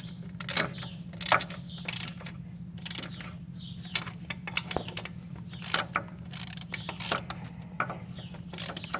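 Ratchet with a 10mm deep socket clicking in short, irregular spurts, snugging the throttle body bolts only lightly so the O-ring behind it is not over-compressed. A steady low hum runs underneath.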